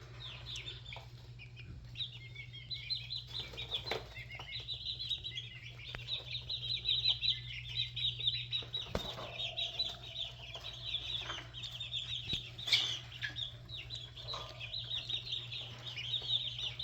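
A brood of young chicks, red junglefowl among them, peeping continuously in rapid, high-pitched chirps. A few short knocks or wing-flaps are heard, over a low steady hum.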